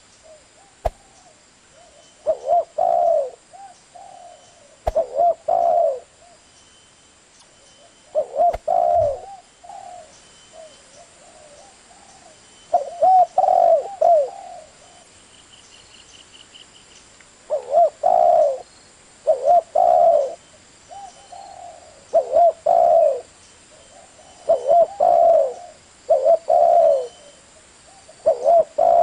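Spotted dove (tekukur) cooing: its low coo phrases come again and again, each a second or two long, with pauses of a few seconds between them. Faint high chirps of a small bird can be heard in the background.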